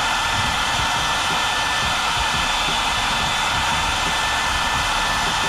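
Hair dryer running steadily on its second speed, blowing hot air: an even rush of air with a faint steady high whine over it.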